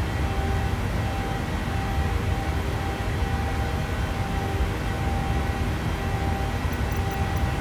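Boeing 737 cabin noise in flight: the steady roar of the engines and rushing air, heavy in the low rumble, with a faint steady whine over it.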